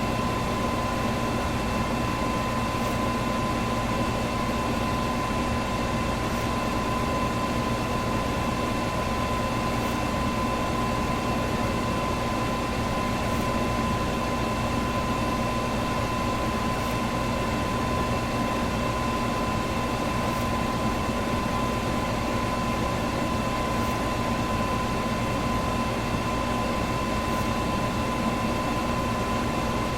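Electric fan running steadily, a constant whooshing rush of air with a steady motor hum and a clear whine held at one pitch.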